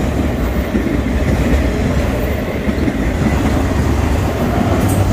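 BNSF freight train of enclosed autorack cars passing close by, a steady loud noise of steel wheels rolling on rail.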